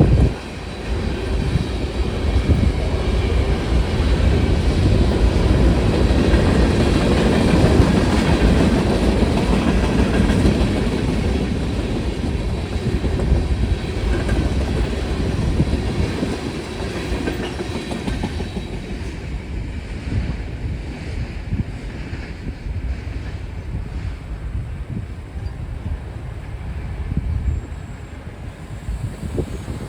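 Freight cars of a BNSF manifest train rolling past, wheels clattering and knocking over the rails in a steady stream, louder in the first half and easing off after about two-thirds of the way through.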